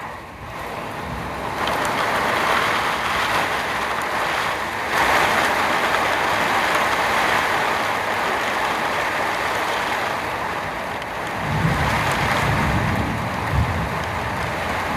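Heavy thunderstorm rain pouring steadily, getting louder about two seconds in and again about five seconds in. A low rumble of thunder comes in about eleven seconds in.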